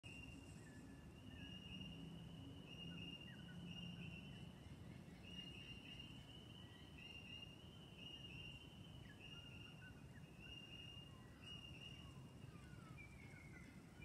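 Faint bird calls at dawn: a high note repeated over and over, each note about half a second long, with short falling calls beneath it.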